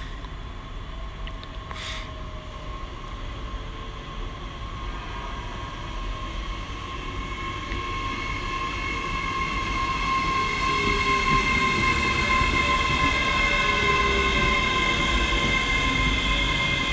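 A ScotRail electric multiple-unit train approaching and running past along the platform. Its rumble and steady high whine grow louder over the first ten seconds, then hold as the carriages pass close by.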